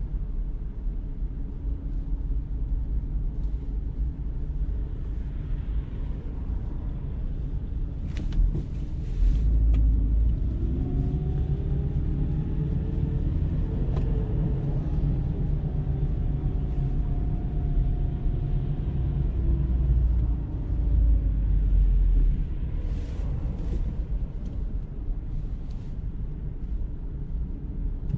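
Car engine running with a steady low rumble; around the middle its pitch rises slowly, holds, and falls back over about ten seconds as the engine is brought up in speed and let back down.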